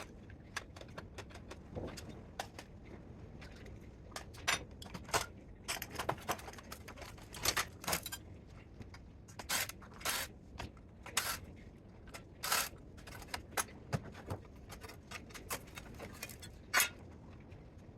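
Irregular metallic clicks, clanks and short scrapes of hand tools and loose parts being handled while a DC spot welder is taken apart for scrap.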